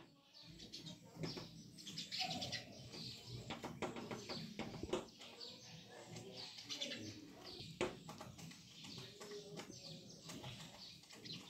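Small birds chirping repeatedly, with several sharp taps, the loudest about five and eight seconds in.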